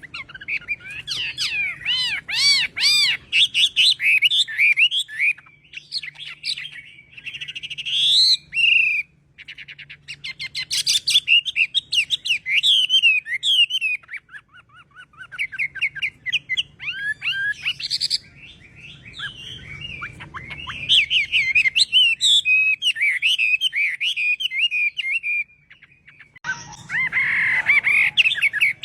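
Chinese hwamei (melodious laughingthrush) singing: a long, varied song of rapidly repeated whistled notes and sliding phrases, broken by a few short pauses.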